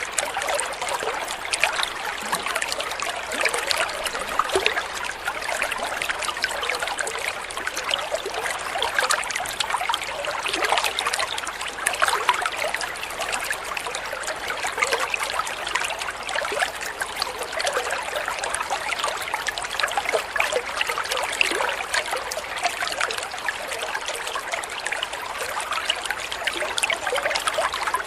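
Water trickling and babbling steadily, a constant patter of many small splashes and droplet plinks.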